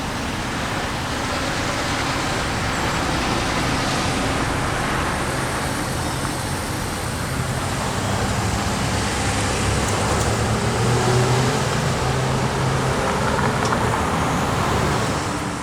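Road traffic passing over the grade crossing: a steady wash of tyre and engine noise, with one vehicle's low engine hum growing louder about halfway through.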